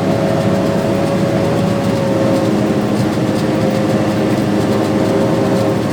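Farm tractor's diesel engine running steadily under load while pulling a soybean planter, with a constant drone and a steady whine.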